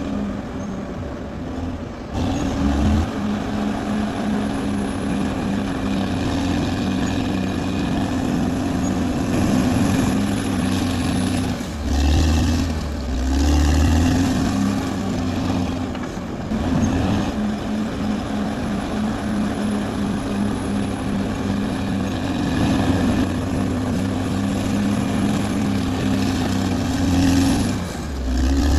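Caterpillar D6R XL bulldozer's diesel engine running steadily under load while it works, its note dipping and shifting briefly a few times, around the middle and again near the end.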